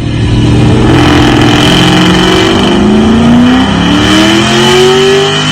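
V8 car engine and exhaust accelerating hard: the pitch climbs, drops once about three and a half seconds in as it shifts gear, then climbs again.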